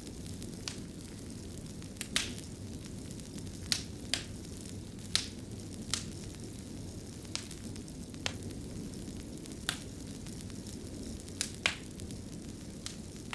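Wood fire crackling in a fireplace: a steady low rumble of burning logs with sharp, irregular pops and snaps, about a dozen of them.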